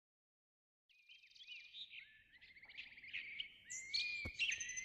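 Birds singing: a run of chirps, trills and short rising whistles that starts about a second in and grows busier, with a single sharp click about four seconds in.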